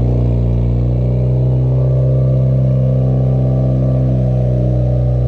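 Turbocharged Honda R18 inline-four in a Civic idling steadily through a newly fitted exhaust, moments after starting. The exhaust has one bolt missing on a three-bolt flange.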